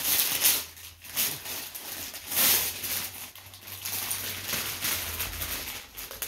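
Wrapping paper rustling and crinkling in irregular bursts as a present is unwrapped.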